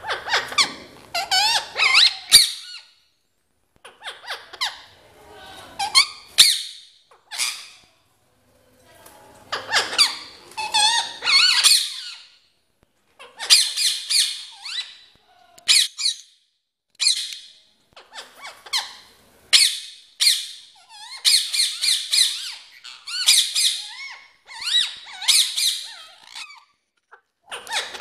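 Ringneck parrot calling: a run of shrill, high squawks and chatter in bursts of a second or two, separated by short pauses.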